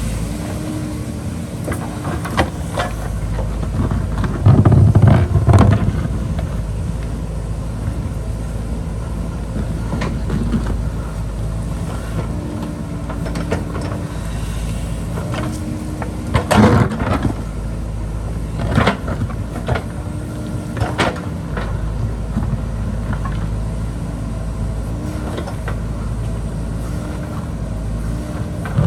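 JCB backhoe loader's diesel engine running steadily while it digs, with several knocks and thumps from the digging. The heaviest thump comes about five seconds in, and sharper knocks come past the middle.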